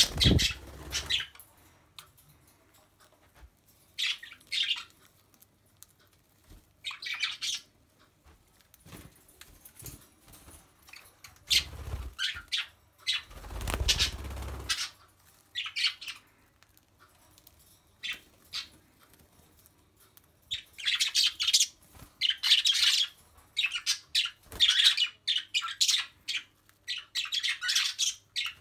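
Pet budgies and cockatiels chirping and squawking in short scattered bursts, becoming a near-continuous chatter in the last third, with a few low thumps around the middle.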